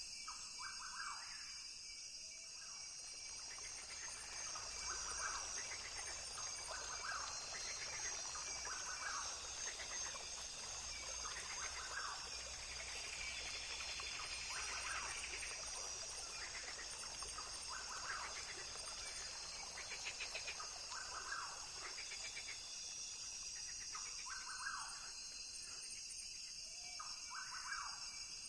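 Rainforest ambience: a steady, high-pitched chorus of insects with short animal calls repeating every second or two.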